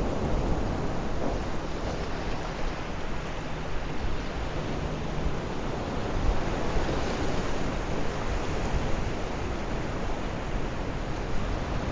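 Sea waves washing steadily on the shore, with wind noise on the microphone.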